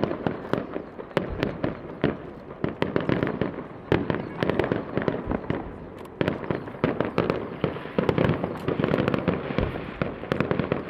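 Aerial fireworks bursting in a dense, irregular run of sharp bangs and crackles, several a second, heard on a camera's built-in microphone.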